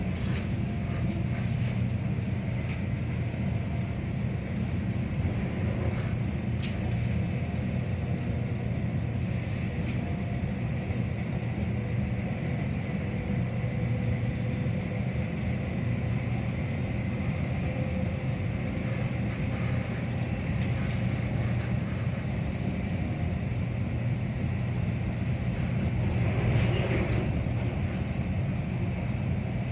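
Metra commuter train heard from inside a passenger car while running along the track: a steady low rumble with a faint steady tone and a few light ticks, swelling slightly near the end.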